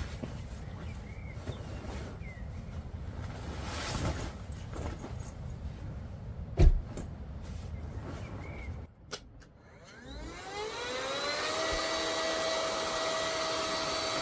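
Low rumbling noise with a few knocks and one sharp thump; about ten seconds in a small electric motor starts, its whine rising in pitch and then holding steady.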